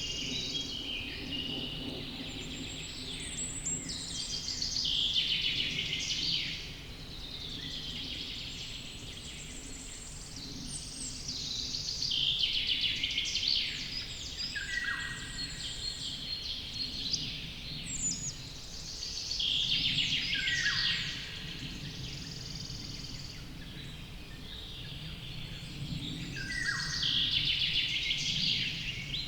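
Songbird singing: phrases of rapid, varied warbling a few seconds long, repeated about every seven seconds, several of them ending in falling slurred notes, over a steady low background hum.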